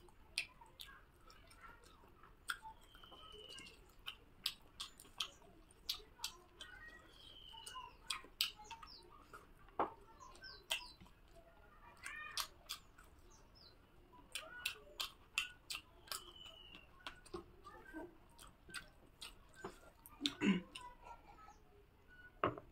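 Close-up eating sounds from a person eating rice and chicken curry by hand: chewing, lip smacks and small wet clicks throughout, and a knock near the end. A bird chirps three times in the background, each a short falling call.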